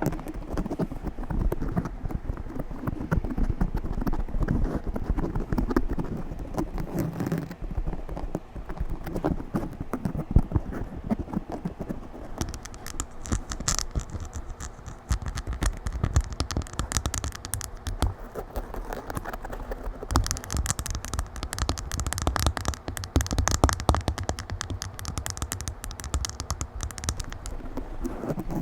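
Fingers scratching rapidly and roughly on a microphone: a dense, continuous run of scrapes and crackles with heavy low handling rumble, getting brighter and hissier from about halfway through.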